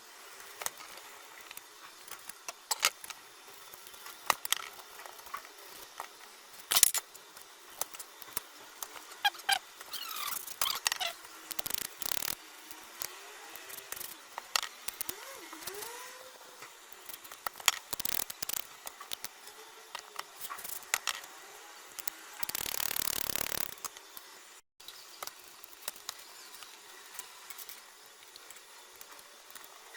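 Irregular small clicks, taps and scrapes of tools and parts being handled at the bench during work on a Pioneer SA-608 amplifier, with one hissing burst lasting about a second, about three quarters of the way through.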